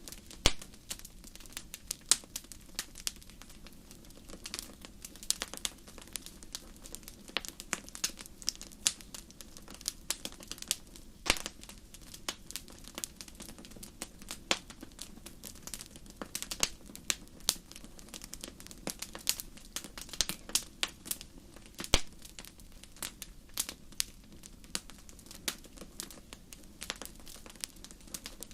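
Wood fire crackling in a fireplace: a steady low hiss of burning with frequent irregular sharp pops and snaps.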